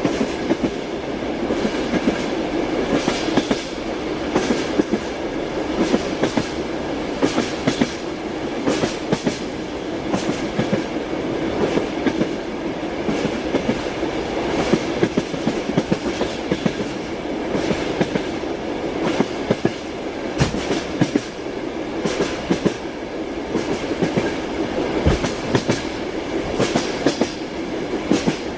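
Moving passenger train: a steady rumble of the carriage with wheels clicking over the rail joints again and again.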